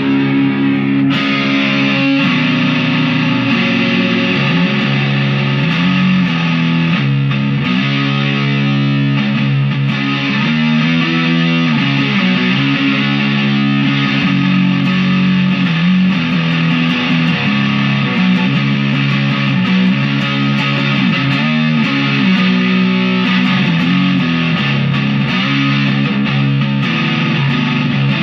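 Electric guitar, a Chapman SAR63, played through an amp with distortion, with chords and notes shifting continuously.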